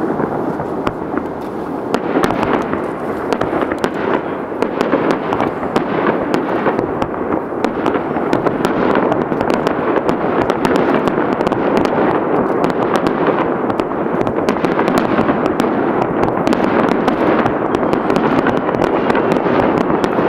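Fireworks crackling densely, many small pops close together over a steady rushing noise from bursts running into one another.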